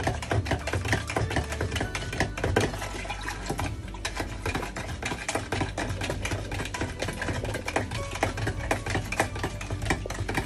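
Metal spoon stirring juice in a plastic pitcher, knocking and scraping against the sides in a quick, continuous run of clicks.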